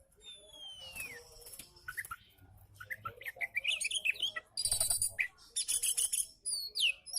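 Oriental magpie-robin (kacer) singing. A clear whistle slides down in the first second, then comes a varied stream of quick chirps and rapid notes. Harsh, buzzy phrases about halfway through are the loudest part.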